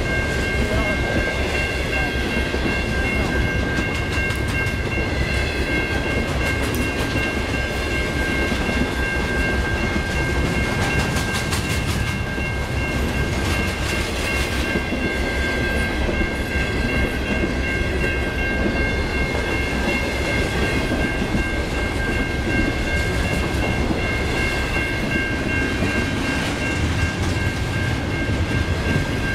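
Intermodal freight train of double-stack well cars and trailer flatcars rolling past at speed: a steady rumble with clattering of wheels over the rail joints. A steady high ringing from the grade-crossing warning bell sounds over it.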